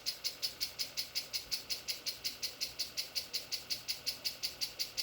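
Canarm Twister 30-inch three-blade ceiling fan running on high in reverse, with a fast, even ticking of about eight clicks a second.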